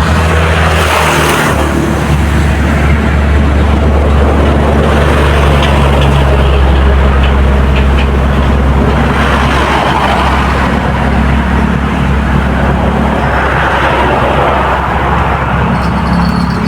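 An engine running steadily, a low drone whose pitch shifts slightly a few times, with a rushing noise over it.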